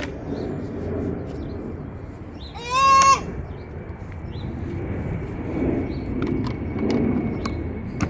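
A child's single high-pitched cry, held on one note for about half a second about three seconds in, over a low background rumble with a few faint clicks.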